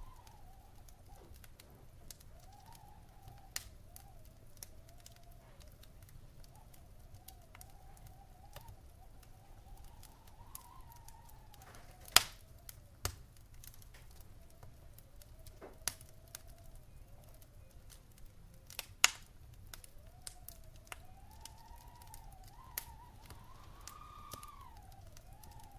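Wood fire crackling in a fireplace: scattered sharp pops and snaps, two louder ones about twelve and nineteen seconds in, over a steady low rumble. A faint whistle wavers up and down throughout.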